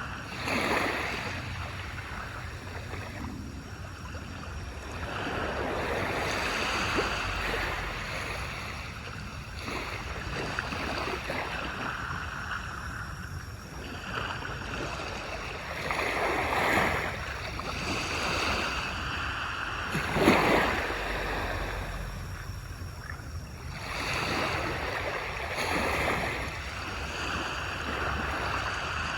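Small waves breaking and washing up on a beach, rising and falling every few seconds, with one louder wave breaking about two-thirds of the way through.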